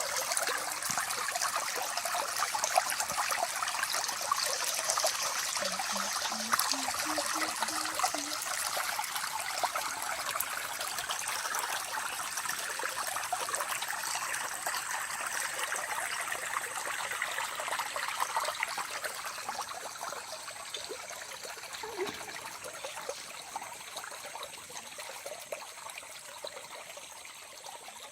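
Small stream running and trickling, a steady watery rush full of tiny splashes. It grows somewhat quieter over the last several seconds.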